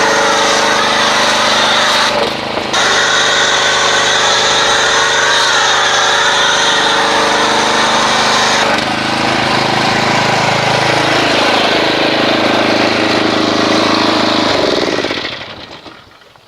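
Pressure washer running while spraying car-wash soap through an MTM PF22 foam cannon: a steady motor hum under a loud spray hiss. The spray breaks off briefly about two seconds in, the hum shifts lower around nine seconds, and it all shuts off near the end.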